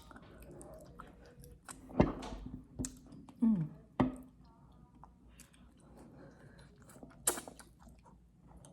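Close-up chewing and mouth sounds of someone eating, with several sharp wet smacks and a short falling hum about three and a half seconds in.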